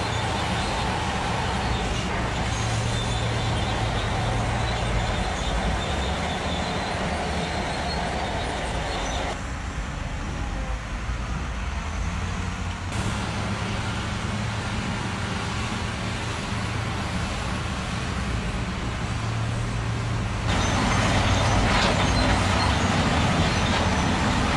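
Truck engine running with a steady low hum. The sound thins out for a few seconds about ten seconds in and grows louder about twenty seconds in.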